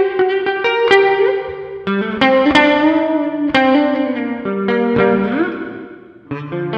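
Electric guitar played through a Digitech RP1000 multi-effects processor: picked single notes that ring on, with upward slides about one and five seconds in. The sound fades briefly, then new, lower notes come in near the end.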